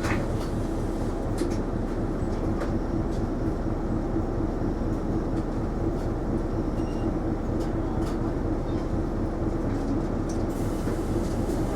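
Cabin sound of an Isuzu Erga non-step city bus running: a steady engine and road rumble with a constant hum and a few light rattles.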